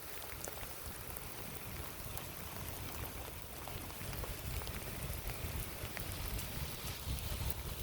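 Rain falling, with scattered drops ticking close by and wind rumbling on the microphone, the wind growing a little stronger in the second half.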